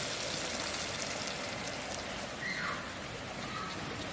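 Steady rushing water noise, like rain or a flowing stream, with a brief faint falling tone about halfway through.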